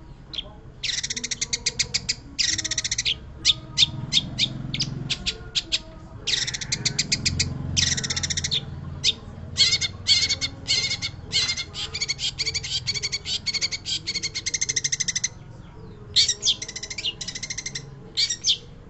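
Long-tailed shrike (pentet) singing: rapid runs of harsh, rattling notes and fast trills in phrases of one to several seconds, broken by short pauses.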